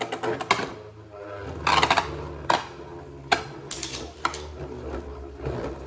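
Two spinning Beyblade Burst tops battling in a plastic stadium: sharp clicks and knocks as they strike each other and the stadium wall, several a second at uneven spacing, over a steady whirring hum.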